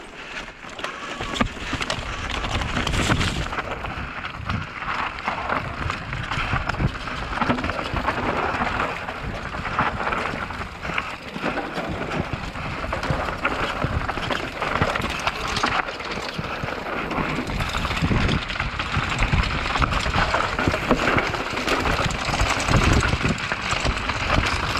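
Downhill mountain bike running fast over a rocky dirt trail: continuous rattle and clatter of tyres, frame and components hitting rocks, with frequent sharp knocks.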